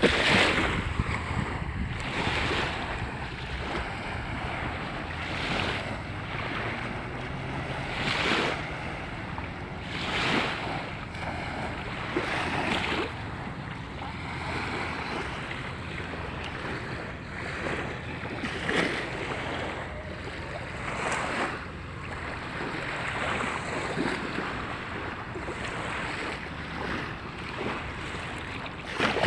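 Volga river waves washing onto the beach, a surge every two to three seconds, with wind buffeting the microphone.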